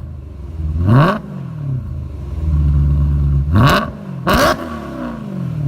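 Supercharged BMW M3's Remus Race exhaust as the engine is blipped three times. Each time the revs climb quickly and then fall back to a low, steady idle.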